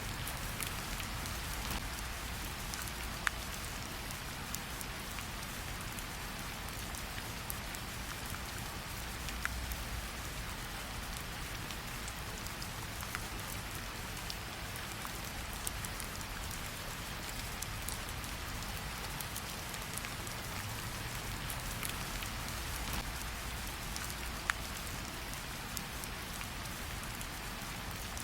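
Steady rain hissing over a low rumble, with scattered sharp crackles and pops from a wood fire, a few of them louder, about 3, 9 and 24 seconds in.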